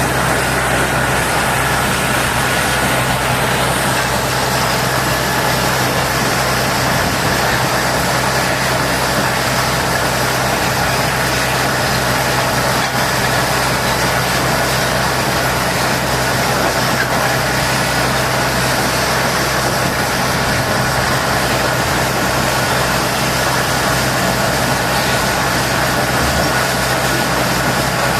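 Engine running steadily at idle under a constant hiss, unchanging throughout.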